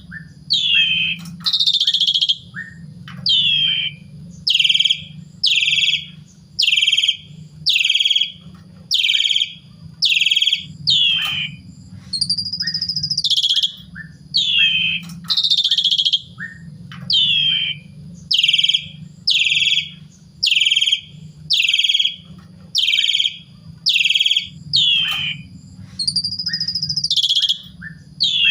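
Asian pied starling (jalak suren) singing: a long slurred whistle, then a string of short downward-sliding whistled notes about one a second. The phrase starts over roughly every 13 seconds.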